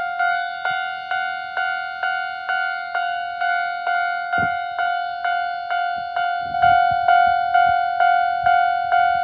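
Japanese railway level-crossing warning alarm ringing steadily at about two strikes a second. Each strike is a bright ringing tone. A low thump comes about halfway through, and a low rumble follows a couple of seconds later, when the alarm is a little louder.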